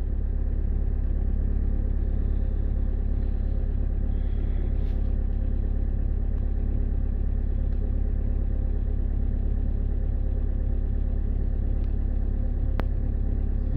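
2010 Skoda Octavia 1.6 TDI four-cylinder diesel engine idling steadily shortly after a cold start at about −22 °C. A single sharp click sounds near the end.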